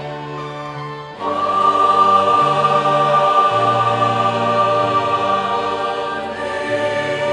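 Church choir singing with a violin ensemble in long held chords. About a second in, the music swells suddenly louder and fuller, with a high note held over the chords.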